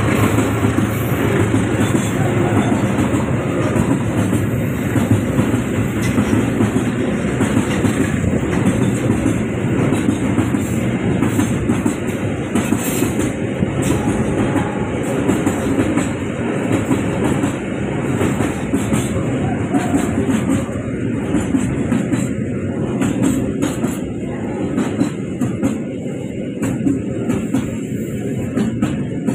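Train cars rolling past on a curve, a steady rumble of wheels on rails with clacking over the rail joints, easing slightly near the end.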